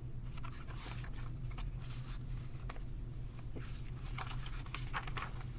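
Scattered soft rustles and taps of a paper picture book being handled and its pages opened, over a steady low electrical hum.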